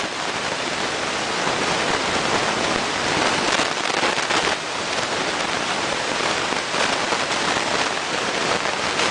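Steady, even rain-like hiss, strongest in the upper range.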